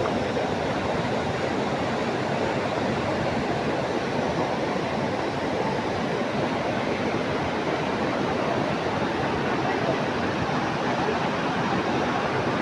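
Karura waterfall's steady rush of falling water, an even, unbroken roar at constant level.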